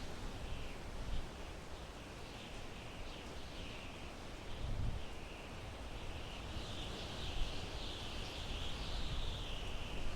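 Wind blowing through pine trees in uneven low gusts, with a thin, high, wavering chirping from distant wildlife above it that grows steadier about halfway through.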